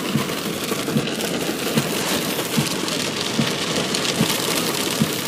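Steady rain hiss, with a soft low thump repeating a little more than once a second.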